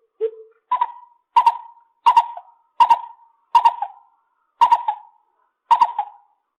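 Lesser coucal calling: a steady series of short hollow hooting notes about 0.7 s apart, the first lower, the rest stepping up in pitch.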